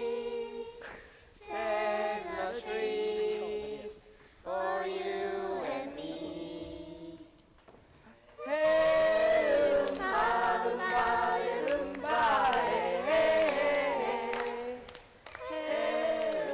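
A choir of children's voices singing unaccompanied, in held phrases of a second or two with short breaths between, growing louder about halfway through.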